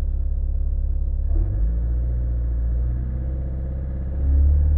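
Cold Skoda Octavia 1.6 TDI four-cylinder diesel engine running, its revs raised in steps: the engine note rises about a second in and rises and gets louder again near the end.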